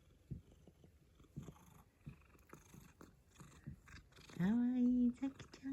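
Tuxedo cat purring softly in faint, uneven pulses, then a short, low, steady voiced call lasting under a second about four and a half seconds in.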